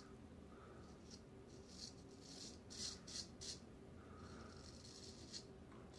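Faint, short scrapes of a straight razor cutting stubble against the grain, several quick strokes with pauses between, in near silence.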